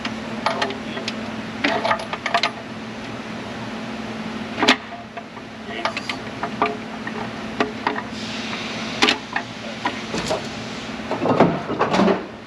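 Scattered metallic clicks and knocks of hand tools and parts being worked loose on a van engine during intake manifold removal, with a short hiss about eight seconds in, over a steady low hum.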